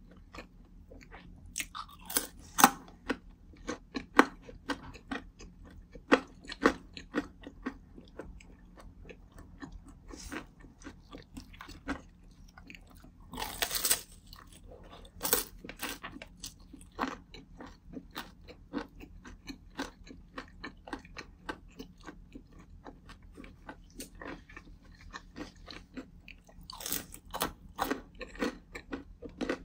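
Close-miked chewing and crunching of crispy fried dumplings, a run of sharp, irregular crunches. About halfway through there is a longer, dense crunch as a fresh bite is taken.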